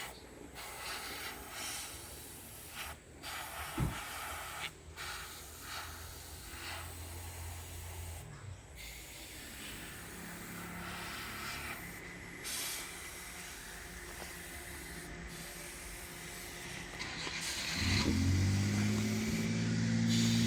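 Airbrush spraying paint in stop-start bursts, the hiss cutting out briefly each time the trigger is let go. A low steady hum comes in near the end and is louder than the spraying.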